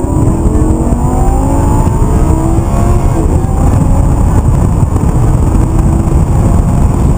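Lamborghini Gallardo LP 560-4's V10 engine pulling hard under acceleration, heard from inside the cabin as a heavy rumble. Its pitch climbs over the first three seconds, then holds steadier.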